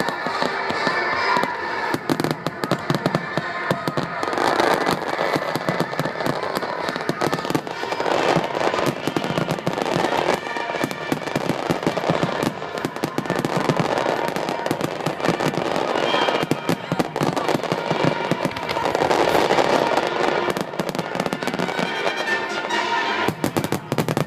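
Fireworks display: a dense run of shell bursts and crackling, many reports in quick succession, with music playing alongside.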